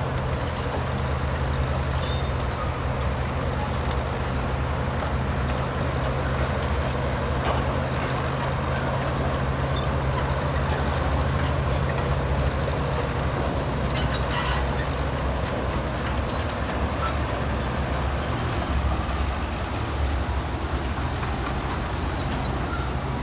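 Heavy diesel machinery engine running steadily at a constant pitch, with a few faint metallic knocks about two-thirds of the way in.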